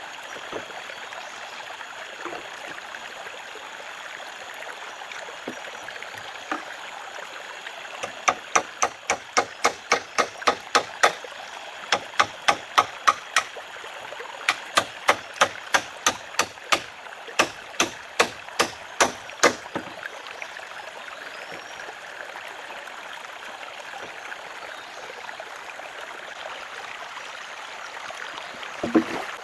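Steady rush of a flowing stream. Through the middle comes a series of sharp strikes, about three a second, in four short runs. There is one more strike near the end.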